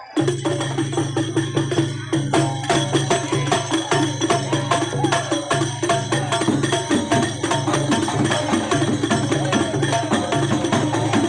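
Percussion-led music with a quick, even beat of sharp strokes over a steady low hum. It starts abruptly.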